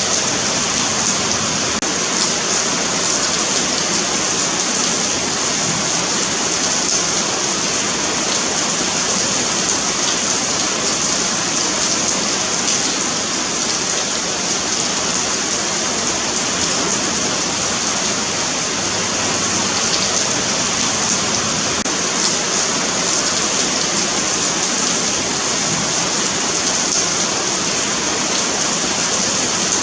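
Steady rain falling on a paved sidewalk, an even, unbroken hiss of many drops.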